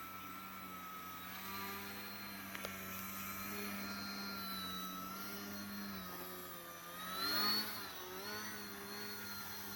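Electric motor and propeller of a Radiolink 3D foam RC airplane hovering, a steady whine whose pitch wavers up and down as the throttle is worked, swelling louder about seven seconds in.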